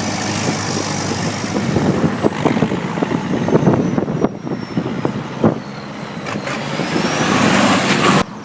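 Tractor engines running as tractors drive past, a steady noisy rumble with irregular knocks and a rising tone late on. It cuts off suddenly near the end.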